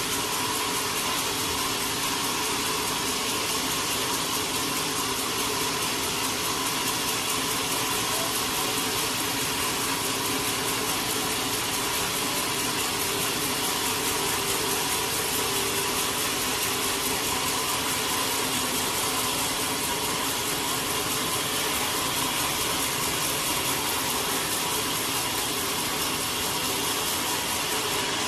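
Sawmill machinery running steadily: a constant mechanical hum with a few faint steady tones over a hiss.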